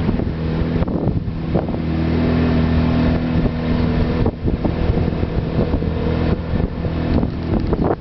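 Outboard motor on a river canoe running steadily under way, its engine note holding even throughout, with wind buffeting the microphone.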